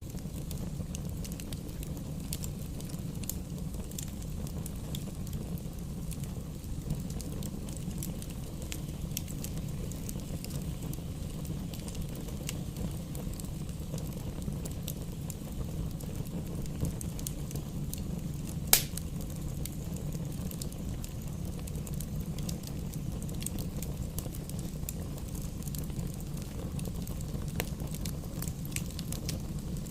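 Campfire burning with scattered crackles and snaps over a steady low rumble, with one loud sharp pop about two-thirds of the way through.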